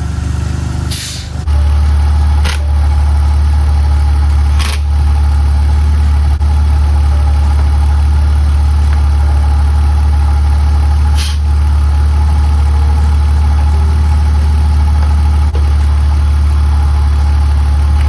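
BMW E46 engine idling steadily, with no sputter now that its misfire has been fixed. It gets louder about a second and a half in, and a few short clicks sound over it.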